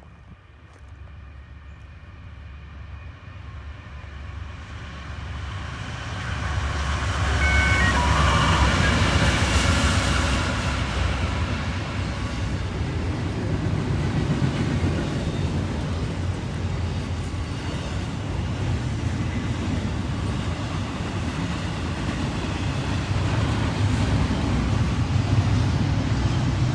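A Norfolk Southern freight train approaches and passes. The diesel locomotives' low rumble swells to its loudest about eight to ten seconds in, then gives way to the steady rolling noise of the train cars.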